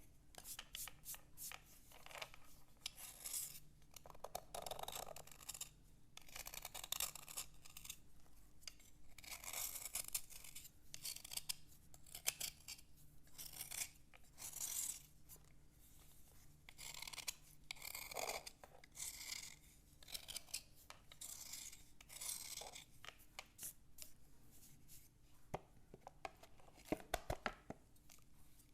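Slate being scratched in a long run of short, gritty scraping strokes, one every half second to a second.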